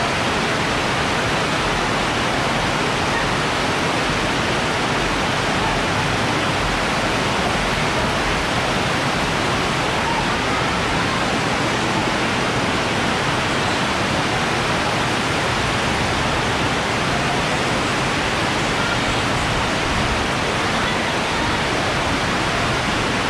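Heavy rain pouring steadily, heard from under a sheet-metal roof: a dense, even hiss that does not let up.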